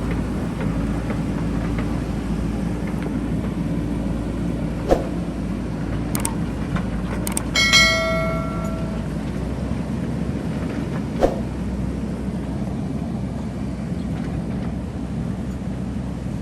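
JCB backhoe loader's diesel engine running steadily under work, with a few sharp metallic knocks and one ringing clang about halfway, like the steel bucket striking stones in the gravel.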